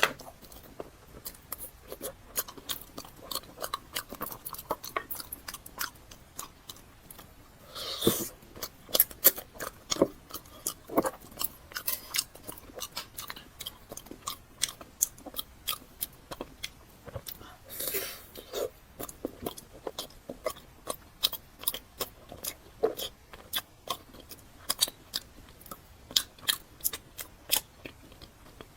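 Close-miked chewing and mouth sounds of someone eating chocolate lava cake: a steady run of wet smacks and clicks, with two louder bites about 8 and 18 seconds in.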